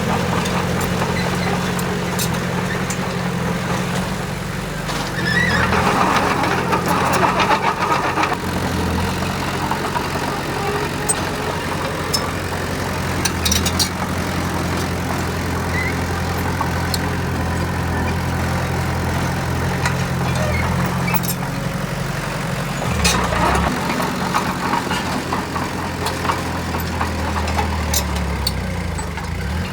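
Diesel engine of heavy earthmoving machinery running steadily, with a harsher, louder noise about five seconds in and again a little past twenty seconds, over scattered clicks.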